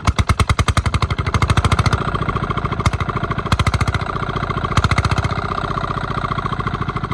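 Old Petter stationary engine running after its start, a fast, even chugging of about ten beats a second with a couple of louder knocks near the middle.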